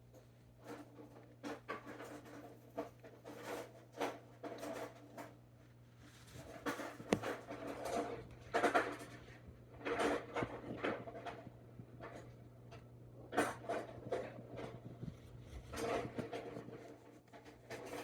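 Raccoons and skunks feeding: irregular crunching, scraping and rummaging as they chew and handle food on the deck, over a steady low hum.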